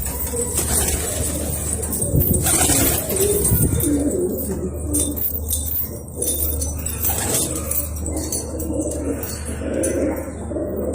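Domestic pigeons cooing, several calls overlapping throughout, with a few sharp clattering knocks about two to three seconds in.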